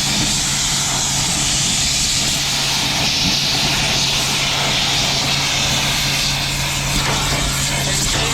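An engine running steadily and loudly, a constant low hum under an even hiss, with no change in speed.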